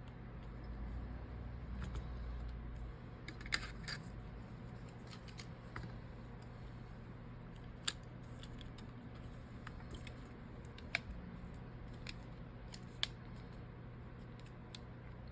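Scattered light, sharp clicks and taps of small tools and phone parts being handled during a phone repair, about five distinct clicks spread over the stretch, over a steady low hum.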